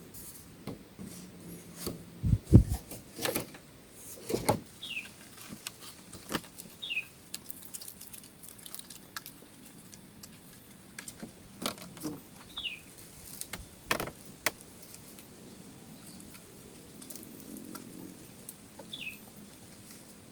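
Scattered close clicks, knocks and rustles of handling and work, the loudest a low thump a couple of seconds in. A bird gives a short falling call four times, several seconds apart.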